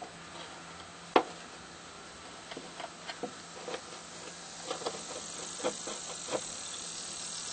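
Scattered clicks and light knocks of hands working the spade connectors and the new run capacitor, with one sharp click about a second in, over a steady hiss.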